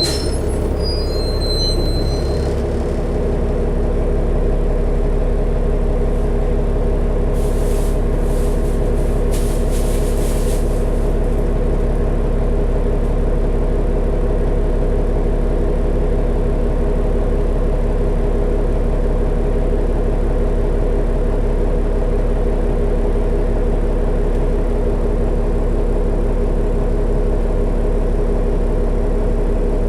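Steady drone of a New Flyer D60LFR articulated diesel bus heard from inside while it cruises: engine and driveline hum over road rumble. A brief high tone sounds just after the start, and a few seconds of hiss come in about a quarter of the way through.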